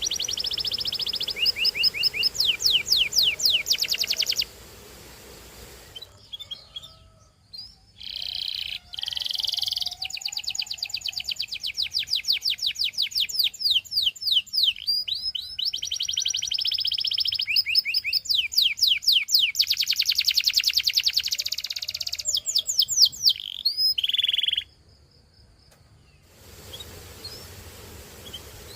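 Domestic canary singing: long trills of rapidly repeated notes, some sweeping quickly up or down, in phrases several seconds long, broken by two short pauses.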